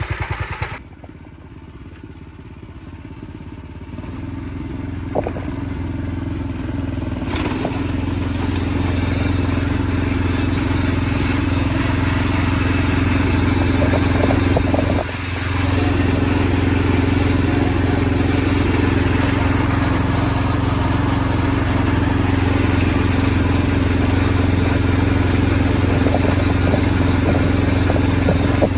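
Garden tractor engine running. About a second in the sound drops sharply, grows louder over the next several seconds, then runs steady, with a brief dip about halfway through.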